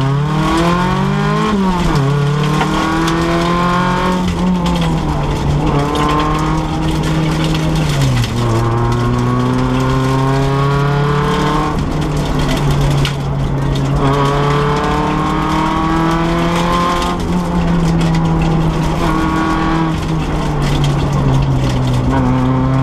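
Renault Clio rally car's engine heard from inside the cabin, driven hard on a stage: its pitch climbs repeatedly as it accelerates and drops back at each gear change or lift, about five or six times.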